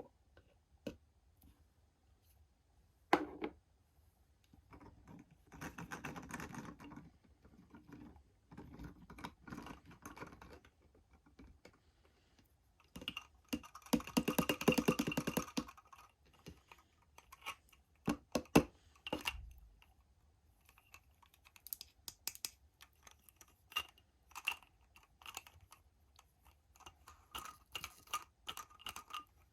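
Hands handling small plastic toys and packaging: scattered sharp clicks and taps, with two longer stretches of rustling and crackling about a third of the way in and near the middle.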